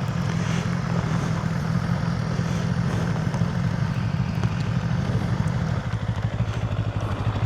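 BMW GS boxer-twin motorcycle engine running steadily at low revs, its note dropping lower about six seconds in.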